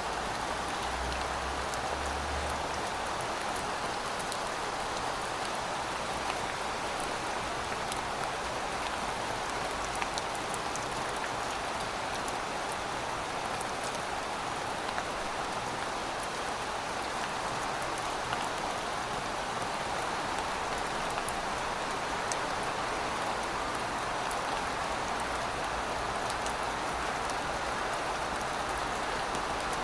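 Heavy rain falling steadily, with scattered drops ticking sharply through the hiss.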